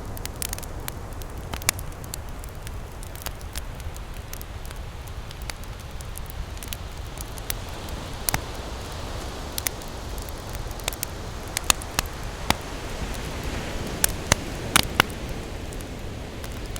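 Campfire crackling, with irregular sharp pops, a few louder ones in the last few seconds. A steady low rush of ocean waves runs underneath.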